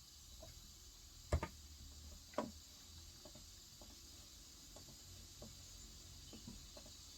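Sparse keystrokes on a Cox Endeavor 35 g electro-capacitive tenkeyless keyboard: two sharp clacks about a second apart, the first the loudest, then a few faint scattered taps.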